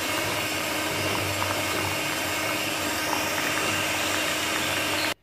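Electric mixer running steadily as it beats thick muffin batter, then switched off abruptly about five seconds in.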